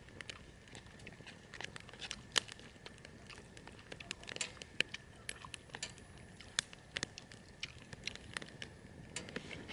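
Irregular small clicks and crackles, several a second with no steady rhythm.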